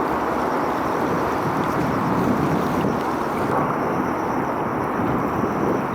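Steady wind rushing over the microphone outdoors by the water, an even noise with no distinct engine tone or sharp sounds.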